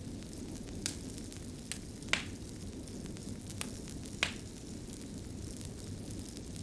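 Fire crackling: a steady low rumble of burning with sharp, irregular pops, the two loudest about two and four seconds in.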